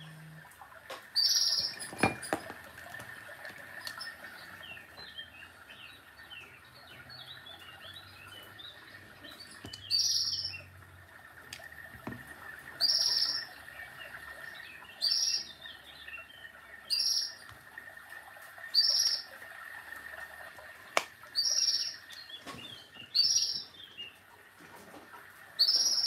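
A small bird chirping: short, high chirps every one to three seconds, with softer twittering between them early on. A faint steady high tone runs underneath, and there are a few sharp clicks of handling.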